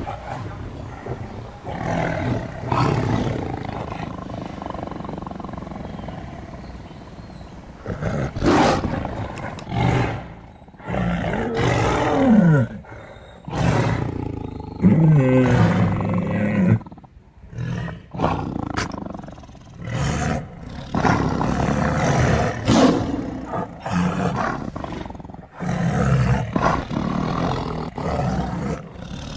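Big cats roaring and growling: a series of loud calls with short pauses between them, several sliding down in pitch.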